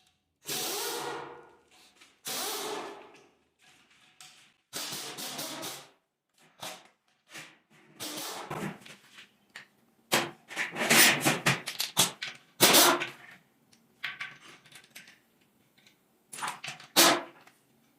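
Workshop sounds from an engine teardown: a few short hissing bursts of about a second each, then clusters of sharp clicks and knocks, loudest in the second half.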